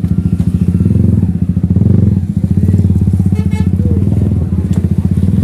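Royal Enfield Hunter 350's single-cylinder engine running with an even, rapid pulse, revving up about a second in as the bike pulls away.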